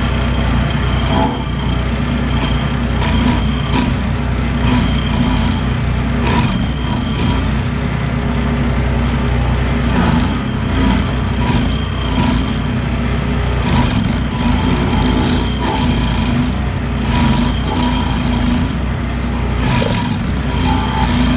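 Lawn mower engine running steadily at high throttle while cutting, with scattered sharp ticks and clicks from debris.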